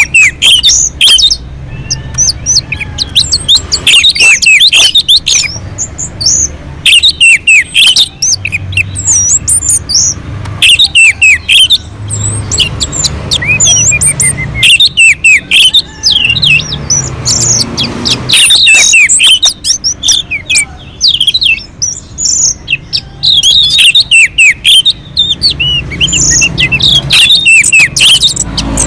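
Orange-headed thrush (anis merah) singing loudly: fast, varied runs of whistled and chattering phrases, delivered in bursts with short pauses between them.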